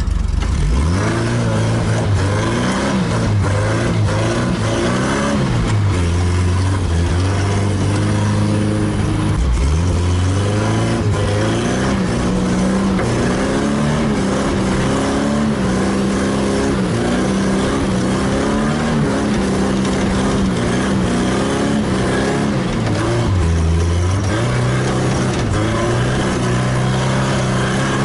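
Chevrolet Chevette's four-cylinder engine heard from inside the cabin while driven hard, its pitch climbing and dropping several times as it is revved and shifted.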